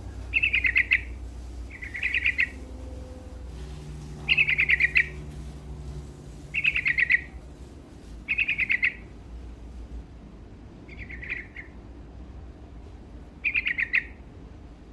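Yellow-vented bulbul singing in full voice: seven short, bubbly, rapid-note phrases, roughly one every two seconds, over a faint low hum.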